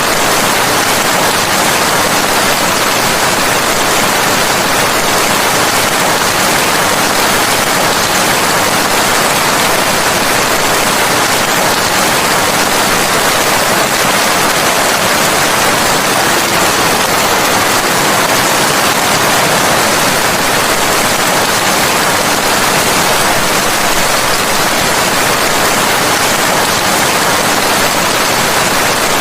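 Steady heavy rain, an even hiss with no separate drops, thunder or music standing out.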